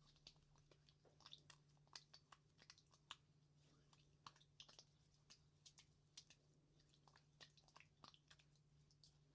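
Quiet, wet clicking and squelching of oiled hands sliding and pressing on skin in an oil massage, in quick irregular little crackles.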